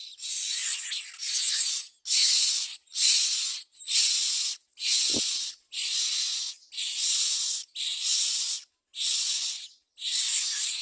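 Common myna nestlings giving harsh, hissing begging calls, one rasping burst about every second, the sound of chicks begging for food.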